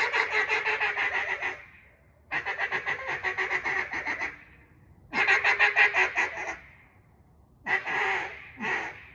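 Singleton acrylic cutdown duck call, hand-tuned, blown in three long strings of rapid quacking notes at about eight a second, then two short notes near the end.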